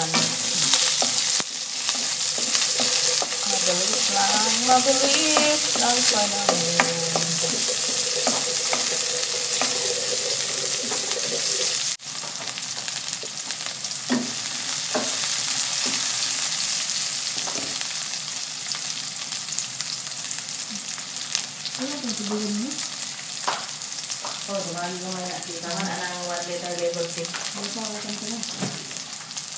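Chopped red onion and garlic sizzling in hot oil in an aluminium wok, with the occasional click and scrape of a utensil stirring them against the metal.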